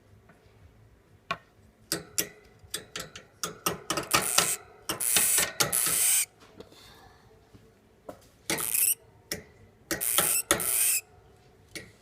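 A hamster's defensive hissing 'whistle': a run of sharp clicks, then several harsh hissing bursts, the longest over a second. It is the hamster's threat call, used here to frighten a cat.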